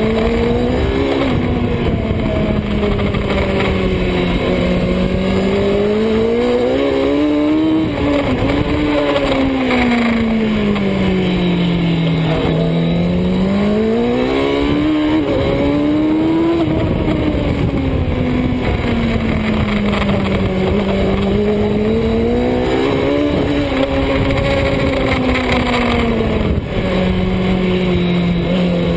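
Superbike engine at speed on track, its note climbing and falling again and again as the rider accelerates and slows through corners, over a constant rushing noise.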